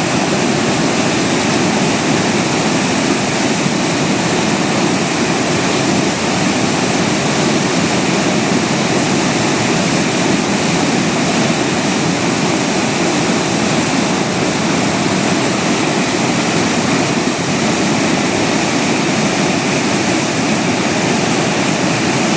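Loud, steady rushing of fast-flowing floodwater in a hill torrent.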